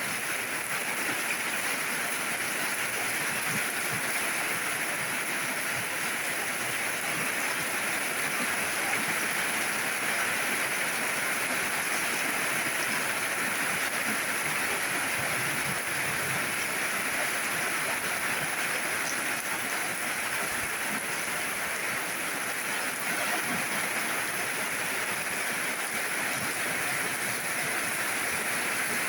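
Steady rainfall, an even hiss with no breaks or distinct drops standing out.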